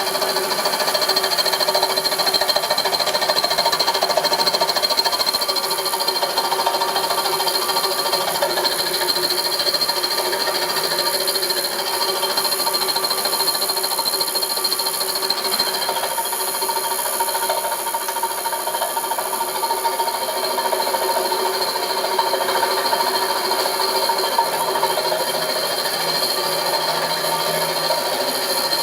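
A motor-driven machine running steadily, a constant whine of several high pitches over a noisy hiss, with no change in speed.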